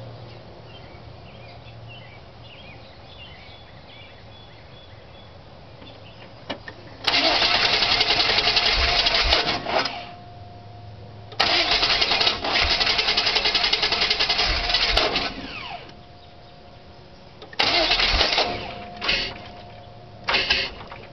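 1998 Chevy Silverado's 350 Vortec V8 being cranked by the starter in repeated attempts of a few seconds each, beginning about seven seconds in, each stopping abruptly. It is a hard-starting problem that a new flywheel and new starter have not cured.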